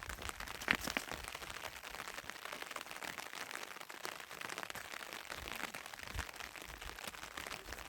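Rain pattering steadily, a continuous hiss of fine drop ticks, with one sharper knock about a second in.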